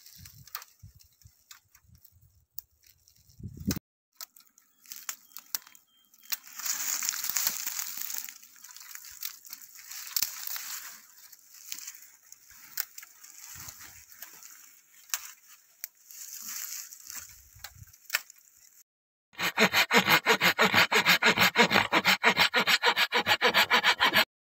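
Dry wood and brush crackling and rustling, with scattered snaps. About three-quarters of the way in, after an abrupt cut, a hand saw cuts through wood with fast, even strokes for about five seconds, then stops sharply.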